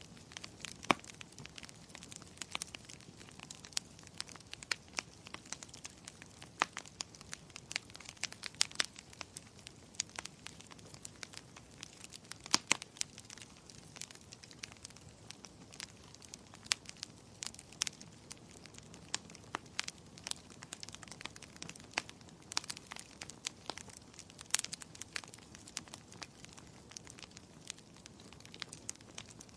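Wood fire burning in a fireplace, crackling with many sharp, irregular pops and snaps over a low hiss.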